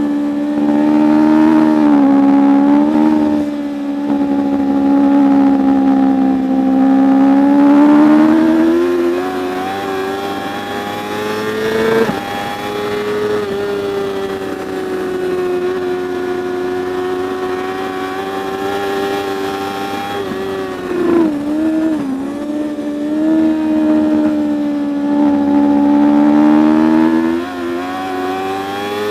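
Superbike racing motorcycle engine running hard at high revs, its pitch climbing and falling with throttle, with quick pitch changes at gear shifts and a sharp drop with blips on downshifting about two thirds of the way through.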